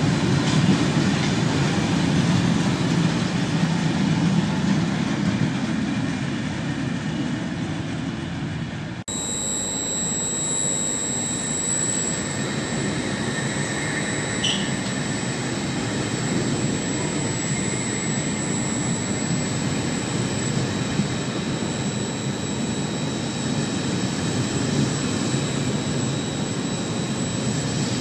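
Freight wagons rumbling past on the near track. After a sudden cut about nine seconds in, an Italo EVO (ETR 675) electric high-speed train runs through the station, with steady rushing wheel and air noise and a high electric whine.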